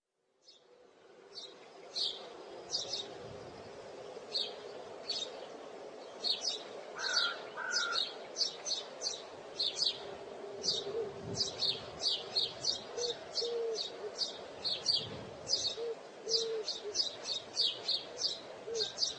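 Small birds chirping: many short, high chirps at about two or three a second over a steady background hiss, fading in from silence in the first second or so. A few brief lower notes are mixed in.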